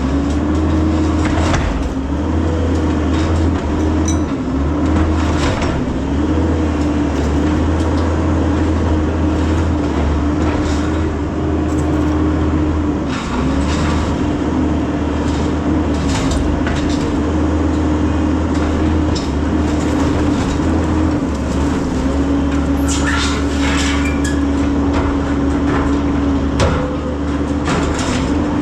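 Diesel engine of heavy earthmoving equipment running steadily while digging, its pitch dipping and rising a little as it takes load. Scattered short scrapes and clanks come in over it, with a cluster about two-thirds of the way through.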